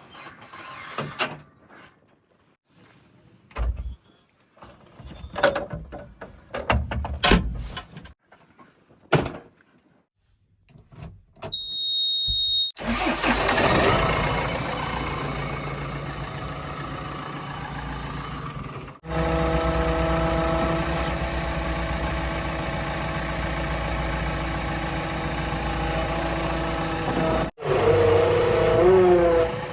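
A few knocks and clicks and a short high beep, then a vehicle engine starts about 13 seconds in and runs steadily at a fairly even speed, its pitch wavering near the end.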